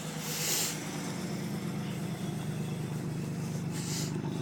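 The 1981 Buick Electra 225's 4.1-litre carbureted V6 idling steadily. A short rustling hiss comes about half a second in and another near the end.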